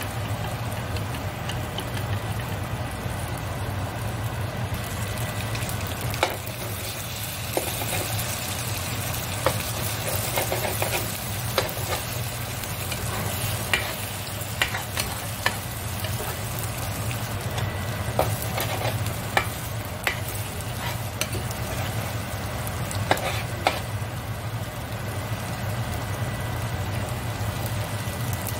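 Eggs and glass noodles sizzling in a nonstick frying pan as they are stirred and scrambled together. From about six seconds in, the utensil strikes the pan with scattered sharp clicks.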